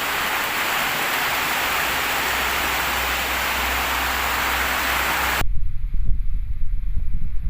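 Heavy rain falling with a steady hiss, which cuts off suddenly about five and a half seconds in and gives way to gusty wind buffeting the microphone.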